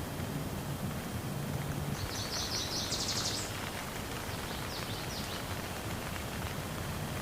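Steady rain falling, with a bird singing a fast trill about two seconds in and a few short chirps a couple of seconds later. A low hum fades out in the first second or two.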